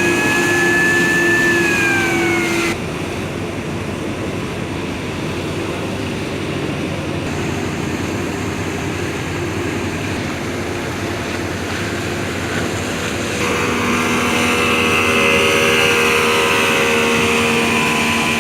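Speedboat engine running at speed under a steady rush of wind and water. Its high whine drops in pitch about two seconds in and breaks off suddenly, and the engine's tone comes back near the end.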